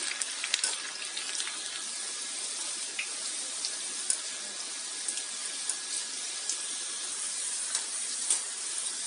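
Sliced okra deep-frying in hot mustard oil: a steady sizzling hiss dotted with small pops and ticks, as a steel skimmer turns the pieces.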